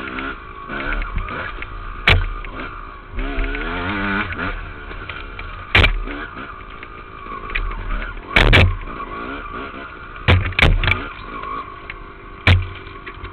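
Dirt bike engine running, heard from a helmet camera, revving up and easing off, with several sharp knocks spread through the ride.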